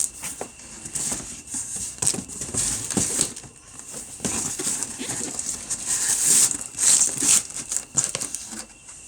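A cardboard box being pushed and worked down into a larger cardboard box: cardboard scraping and rubbing, with small knocks, busiest in the second half.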